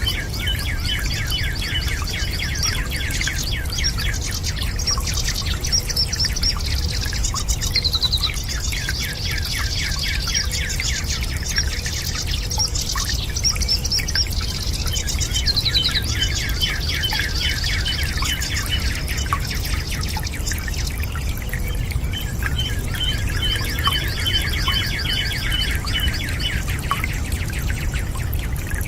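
Small birds singing, with rapid repeated chirps and trills that run on without a break, over a steady low rumbling noise.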